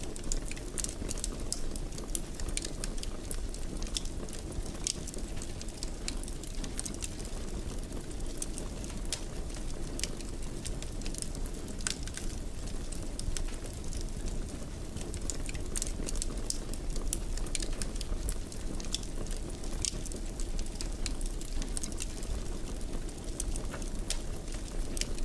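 Wood fire crackling in a fireplace: a steady low rumble of burning with frequent small, irregular pops and snaps.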